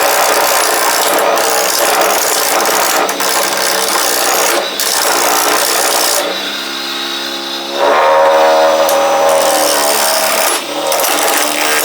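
Wen mini wood lathe spinning a wood blank while a turning chisel cuts it: a loud, rough scraping over the lathe motor's steady hum. A little past the middle the cutting noise drops away for about a second and a half, leaving the motor's hum, then the chisel bites again.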